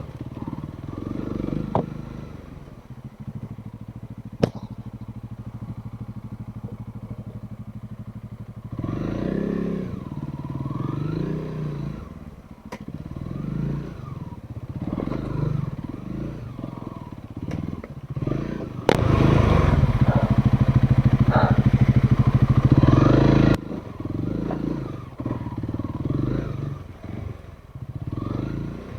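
Off-road trail motorcycle engine riding slowly over rough ground: a steady low run, then repeated throttle blips that rise and fall, with a louder burst of throttle for a few seconds in the second half. Occasional sharp knocks and clatter from the bike over the rough surface.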